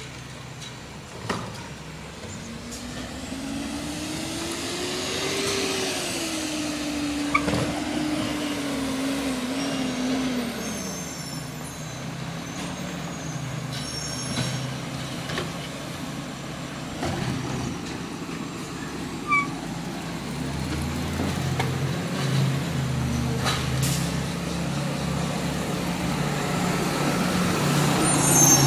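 Garbage truck's engine and hydraulics working through a collection cycle: a drone that rises and then falls in pitch over several seconds, then the engine running louder and rougher. The loudest moment comes at the very end, with short high squeaks.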